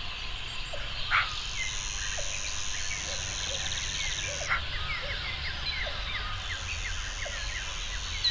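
Male common pheasant giving short harsh calls, once about a second in and again near the middle. Underneath are many small bird chirps and a steady high buzz that stops for a couple of seconds.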